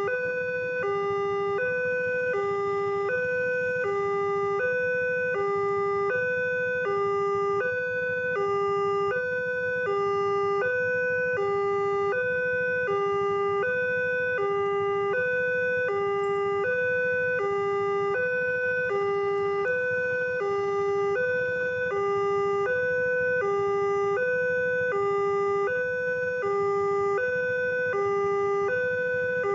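Indonesian railway level-crossing warning alarm sounding continuously: an electronic two-tone signal that alternates evenly between a higher and a lower note about once a second. It is the signal that a train is approaching the crossing.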